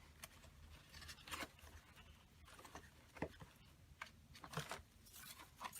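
Faint rustling and scattered light clicks of paper ephemera pieces being handled and gathered into a handful.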